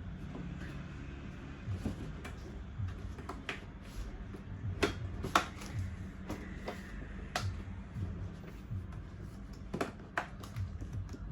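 Plastic parts of a baby high chair knocking and clicking as they are handled: an irregular scatter of sharp clicks, the loudest about five seconds in.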